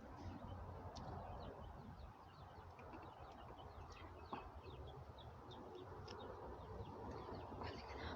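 Faint, quick high-pitched peeping of baby poultry, many short cheeps scattered throughout and a little thicker near the end, over a low steady rumble.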